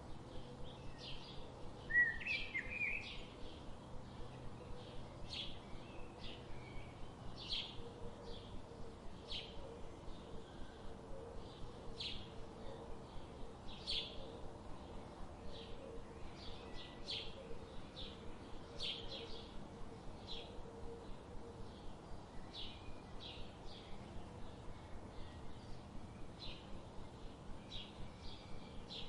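Birds chirping: a steady run of short high chirps, about two or three a second, with a brief louder warble about two seconds in.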